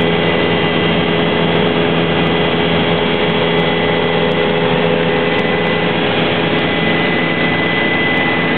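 Helicopter turbine engine and rotor running steadily in flight: a loud, constant roar with a steady high whine and no change in pitch.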